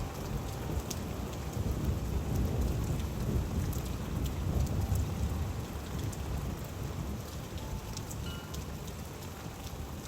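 Steady rain with scattered drips, over a low rumble of thunder that fades gradually through the second half.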